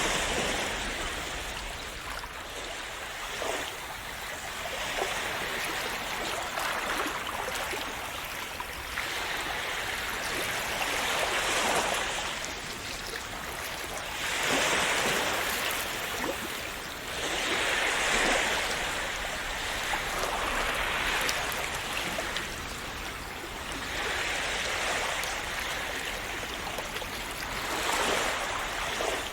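Sea waves washing onto a shore: a steady hiss of surf that swells and fades every few seconds.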